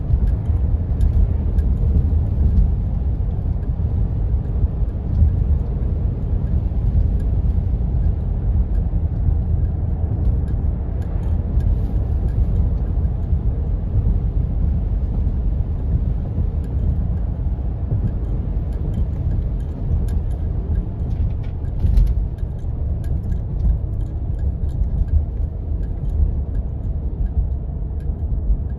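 Steady low rumble of a four-wheel-drive vehicle's engine and tyres driving on snow-covered roads, with scattered faint ticks and a few sharper knocks.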